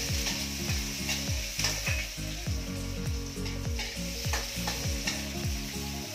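Chopped onions sizzling as they sauté in hot oil in a steel wok, stirred with a spatula that scrapes and taps the pan now and then. A low, regular beat runs underneath.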